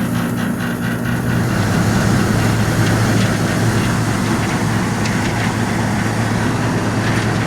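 A 1965 Sears Coldspot 18,500 BTU window air conditioner running: a steady low hum with the rush of its blower, the air noise growing fuller about a second and a half in.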